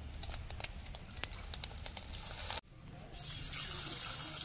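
Soft wet clicks of a hand mixing fish roe with spice paste in a steel bowl; about three seconds in, a spice-coated rohu roe patty starts sizzling in hot oil in a kadai, a steady hiss louder than the mixing.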